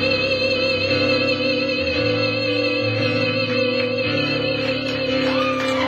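A woman singing a long held final note with vibrato over a band's sustained chords at the close of a song; audience whoops start to come in near the end.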